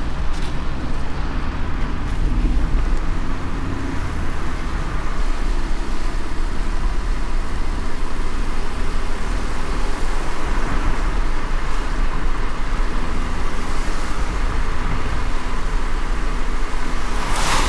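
Car driving in light rain: a steady low road rumble under a hiss of tyres and rain. A short louder whoosh near the end.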